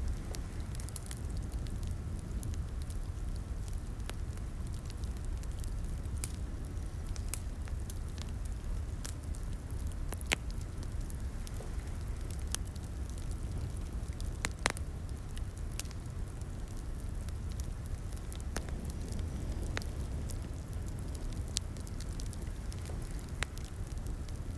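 Wood fire crackling in a fireplace, with a steady low rumble of flames and sharp pops scattered at irregular intervals, the loudest about ten and fifteen seconds in.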